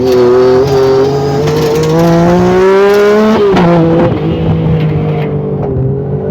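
Yamaha YXZ1000R side-by-side's three-cylinder engine accelerating, its pitch climbing for about three seconds, then dropping sharply and running on at a steady speed.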